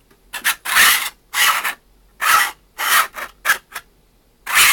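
3D-printed plastic charging handle of a replica E-11 blaster racked back and forth in its slot, plastic scraping on plastic in a run of short rasping strokes, roughly two a second.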